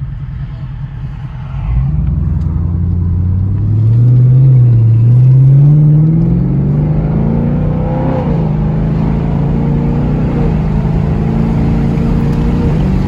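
Car engine revving: it gets louder about two seconds in, the pitch climbs steadily for several seconds, drops sharply about eight seconds in, then holds high and creeps slowly upward before falling back near the end.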